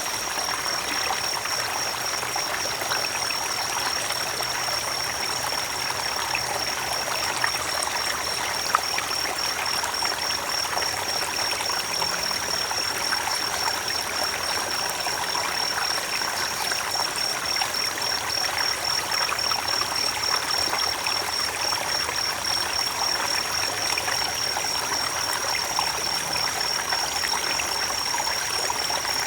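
Creek water flowing steadily, an even rushing and trickling, with a steady high-pitched trill above it.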